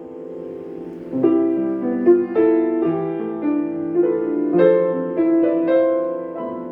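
Solo piano improvisation: gentle chords and melody notes struck and left to ring, with a held, quieter passage at the start and again near the end.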